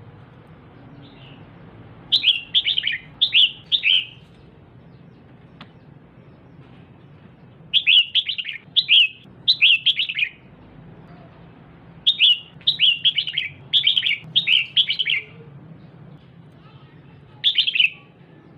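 Female red-whiskered bulbul giving bouts of quick, bright chirping notes, four bouts with short pauses between, over a faint steady low hum.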